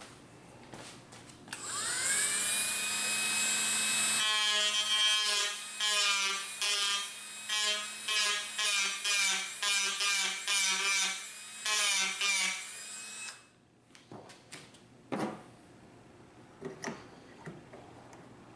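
Dremel rotary tool spinning up, then grinding the wooden stock in short repeated passes, its pitch dipping each time the bit bites into the wood, and switched off at about thirteen seconds.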